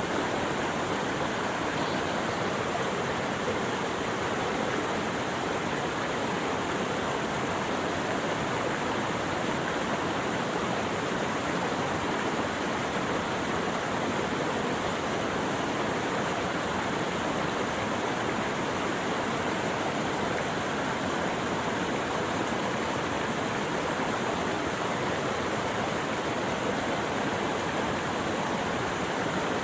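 Steady rushing of running water, an even, unchanging hiss with no breaks.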